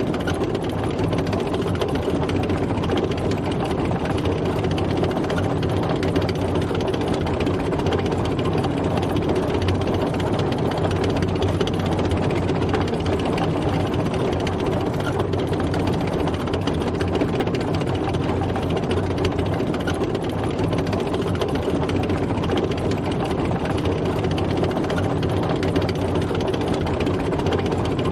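Tank driving, its heavy engine running steadily under an even, dense drone that does not change in pitch or level.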